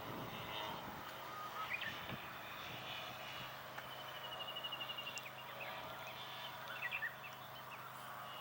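A radio-controlled aerobatic model airplane's motor runs steadily in flight, with birds chirping over it and one short, evenly pulsed trill about halfway through.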